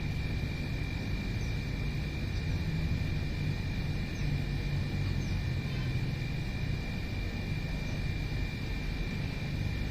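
Steady low rumble under a continuous high-pitched drone, with a few faint, short, downward-sweeping bird chirps scattered through.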